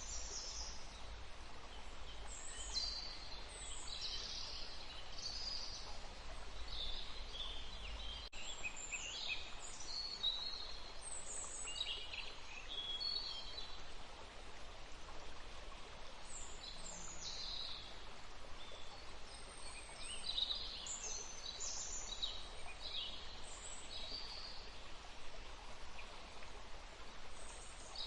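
Several songbirds chirping and trilling in short, overlapping phrases over the steady rush of a forest stream. A low rumble underneath stops about eight seconds in.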